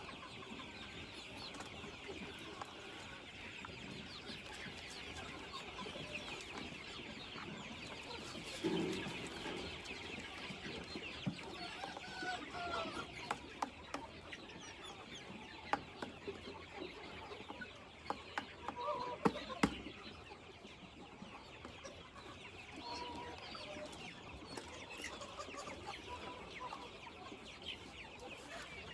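A flock of chickens clucking, over a continuous dense chatter of many short high calls. A few louder clucks stand out in the middle, among scattered sharp clicks.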